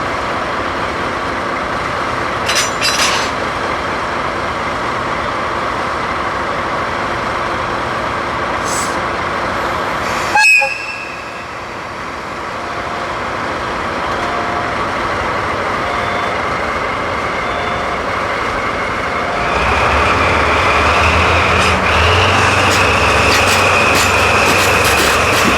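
Freight train of cement tank wagons running on the rails behind a DD51 diesel locomotive, a steady rolling noise. There is one sharp bang about ten seconds in. From about twenty seconds in, a louder low diesel rumble joins with a steady high squeal.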